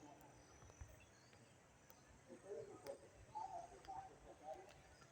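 Near silence: faint outdoor background, with a few faint, indistinct sounds from about two seconds in.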